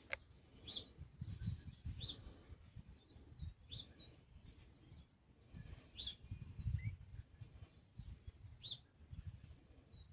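Faint bird chirps, short high notes every second or two, over a low uneven rumble.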